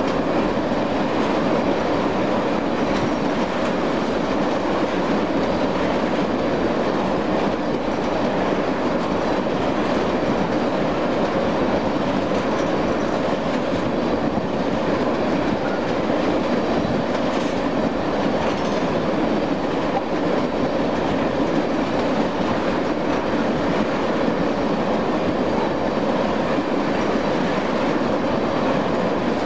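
Freight train of tank cars rolling past: steady, unbroken noise of steel wheels running on the rails.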